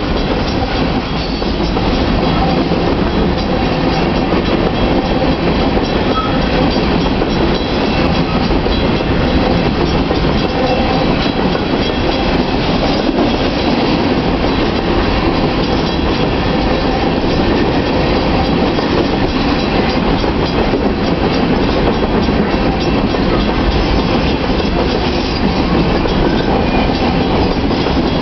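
Freight train of open-top hopper cars rolling past close by: a loud, steady rumble of steel wheels on the rails, with a dense clatter of clicks throughout.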